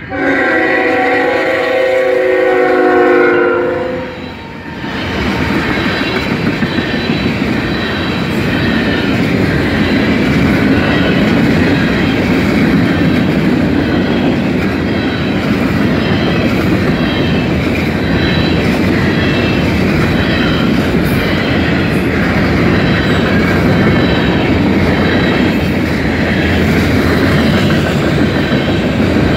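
Canadian National freight locomotive's horn sounding one long chord of several notes for about four seconds. Then the train passes close by: a steady loud rumble of covered hopper cars with rhythmic clickety-clack of wheels over the rail joints.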